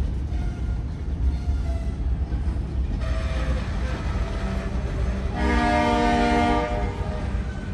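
Freight train of loaded covered hopper cars rolling past with a steady low rumble. About five and a half seconds in, the locomotive's horn sounds one blast of about a second and a half.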